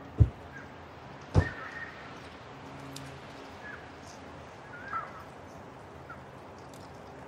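Two dull thumps about a second apart near the start, with birds chirping briefly a few times in the background.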